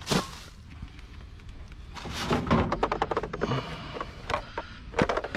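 Rubbish being rummaged through and moved by hand: a sharp knock at the start, then a run of rustling, scraping and clattering from about two seconds in, with more knocks near the end.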